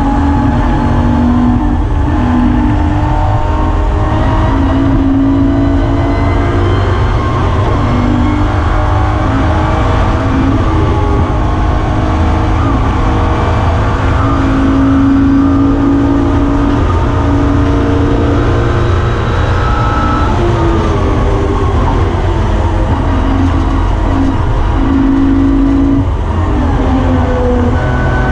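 BMW E46 M3's S54 3.2-litre straight-six driven hard on track, heard from inside the cabin, its pitch climbing and dropping again and again through the gears, over a heavy low rumble.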